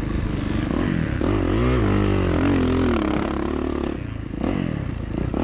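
Motocross dirt bike engine revving as it is ridden, its pitch rising and falling repeatedly through the middle of the stretch, with a brief dip near the end.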